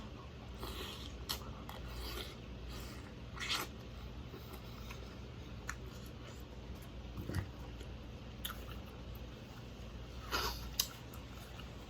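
A person eating close to the microphone: soft chewing and mouth smacks with scattered small clicks, a little louder about three seconds in and again near the end.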